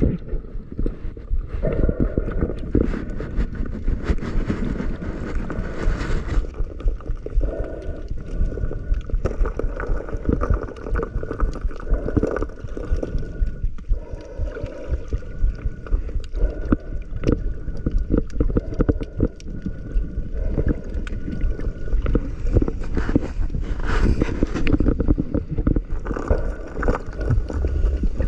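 Seawater sloshing and gurgling around a camera in the sea, heard muffled and low, with frequent small knocks and crackles.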